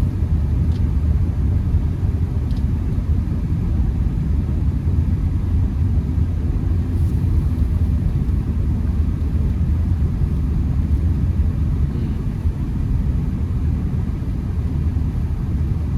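Steady low rumble of a Honda Accord driving on snowy roads, heard from inside the cabin: engine and tyre noise.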